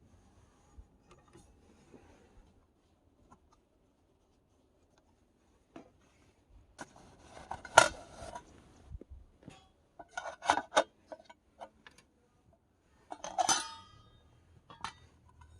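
Cookware and utensils clinking and clattering in three short bursts after a few quiet seconds, some strikes ringing briefly.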